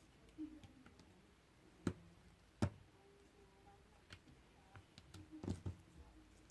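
Slime being handled by hand, giving scattered sharp clicks and pops: two loud ones around two and two and a half seconds in, and a quick cluster near the end.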